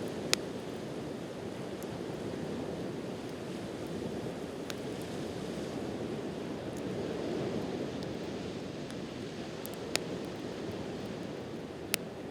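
Steady rush of ocean surf with a campfire crackling over it: a few sharp, separate pops, the loudest right at the start, around ten seconds in and near the end.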